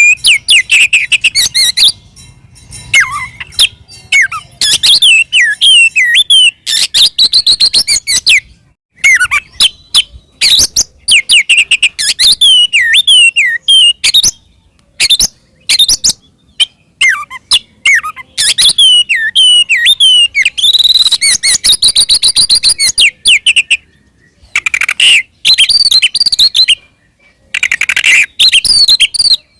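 Oriental magpie-robin (kacer) singing loudly in fighting mode: fast runs of varied whistles and harsh chattering notes. The phrases last one to several seconds, with short pauses between them.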